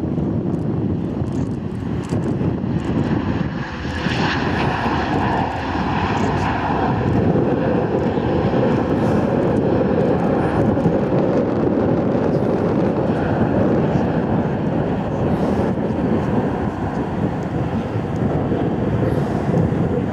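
Jet airliner engines passing overhead: a loud, steady rumble. About four seconds in it swells, with a whine lasting a few seconds, then settles into a heavier low rumble.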